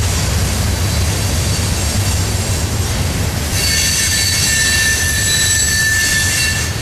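Cars of a CSX mixed freight train rolling past with a steady low rumble. About halfway through, a high squeal of several steady tones from the steel wheels sets in, then cuts off suddenly near the end.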